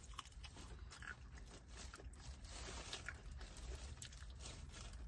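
Faint, close-up chewing of a crisp green vegetable, with small crunching clicks all through.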